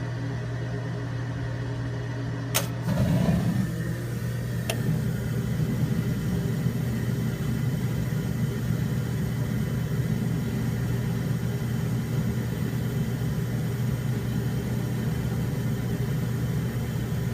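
1994 Rheem Powervent gas water heater in its ignition sequence: the power-vent blower motor hums steadily, a sharp click comes about two and a half seconds in, and the burner lights with a low rumble. A second click follows about two seconds later, and the burner keeps burning under the blower hum.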